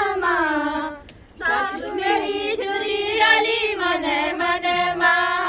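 A high voice singing a slow Pahari folk song in long, wavering held notes, with a short break about a second in before the line goes on.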